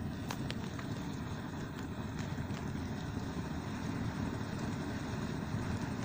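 Bonfire burning: a steady low rumble with a few sharp crackles scattered through the first few seconds.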